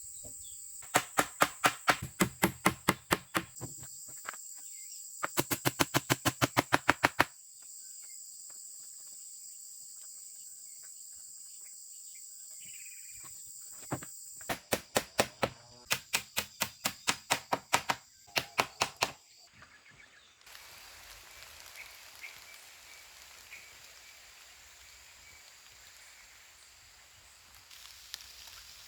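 Insects droning at one steady high pitch, broken by three runs of loud, sharp knocks at several a second, the middle run faster than the others. About two-thirds through, the drone gives way to a faint steady hiss.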